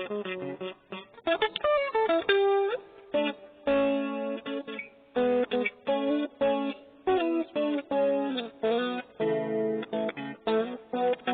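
Cheap maple-body guitar playing a tune, a run of picked notes and strummed chords, some short and some left ringing.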